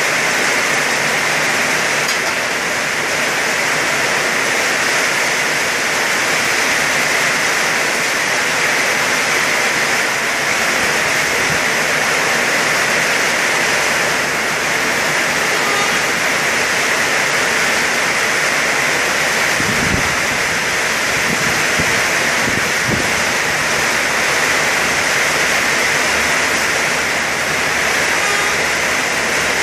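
Heavy tropical rain pouring down as a loud, steady hiss, with a couple of faint low thuds about two-thirds of the way through.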